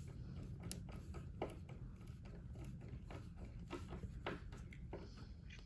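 Faint, irregular clicks and light knocks of a screw being driven by hand into the dishwasher door's mounting bracket, over a low steady hum.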